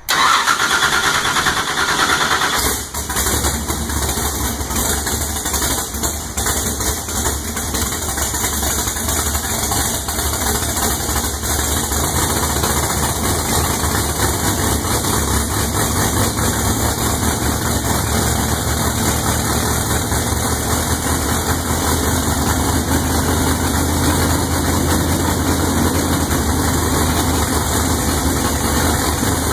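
Big-block Ford V8 of a Top Sportsman drag car firing up suddenly and settling into a loud, steady idle rumble as it warms up.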